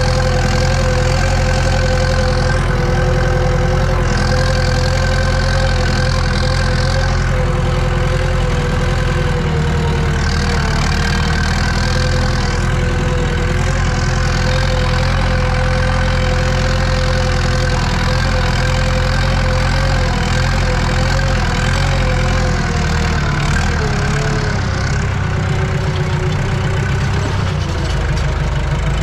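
Eicher tractor's diesel engine running steadily under load while cultivating, heard from inside the cab. Its speed sags a little about three-quarters through, then picks up again near the end.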